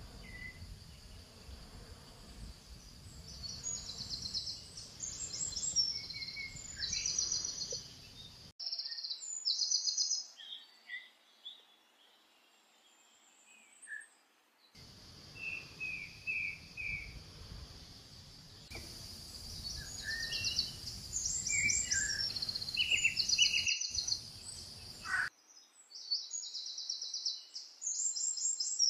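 Wild birds singing outdoors in repeated quick trills and short chirps, over a low background noise that cuts in and out abruptly several times.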